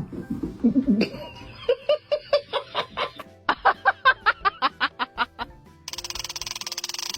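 Laughter in rapid, evenly spaced "ha-ha" pulses, two runs of it, over faint background music, then a steady buzzing for the last second or so.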